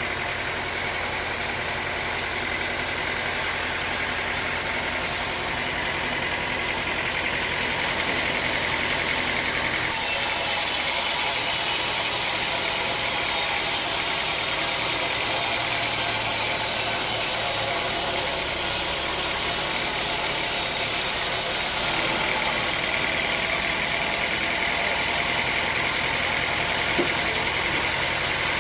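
Sawmill machinery running steadily with a motor hum. A brighter hiss joins about ten seconds in and drops away again some twelve seconds later.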